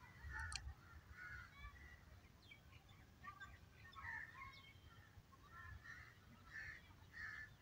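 Faint background bird calls, short calls repeated every second or so over a low rumble.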